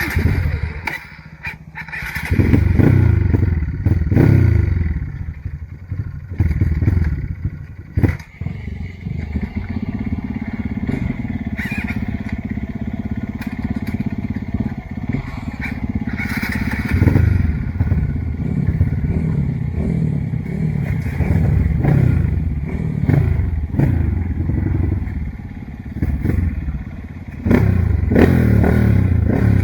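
Trail dirt bike's engine revving up and down in repeated surges, with a steadier stretch midway and occasional sharp clattering knocks; it gets louder near the end.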